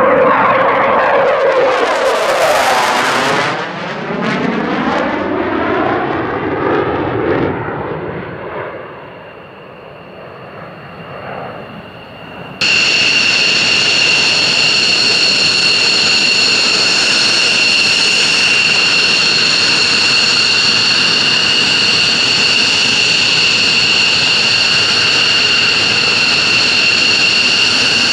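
Military jet flying past: loud engine noise with the falling pitch sweep of a passing jet, fading away over several seconds. About twelve seconds in it cuts abruptly to a loud, steady, high-pitched jet engine whine.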